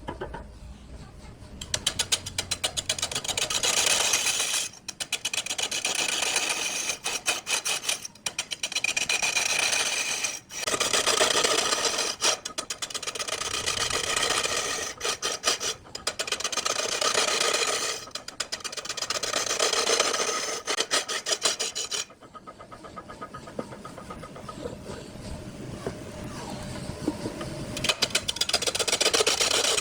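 Turning tool cutting a wood block spinning on a lathe, in a series of scraping passes a few seconds long with short breaks between them, a fast ticking running through each pass.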